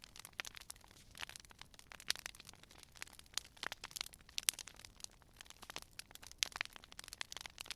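Wood fire burning with frequent irregular crackles and sharp pops over a faint hiss.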